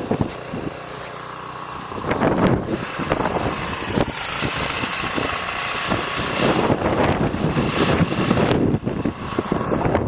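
Wind gusting hard against the microphone, a rough, uneven rushing that swells and drops throughout.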